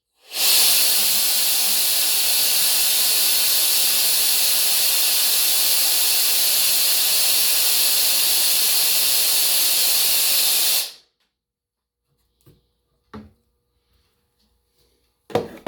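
3D-printed V8 air engine running on compressed air: a steady, loud hiss of air rushing through and out of it. The air cuts off suddenly about eleven seconds in, and a few light knocks follow near the end.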